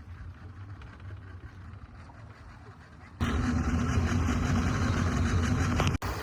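Motorboat engine running steadily, fainter at first and much louder from about three seconds in.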